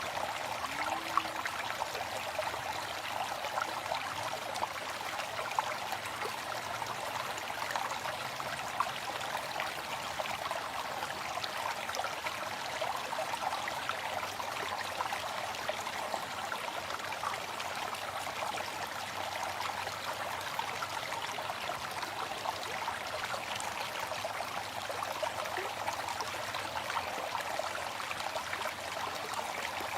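Waterfall: water falling and rushing steadily in an even, unbroken hiss, with little deep rumble.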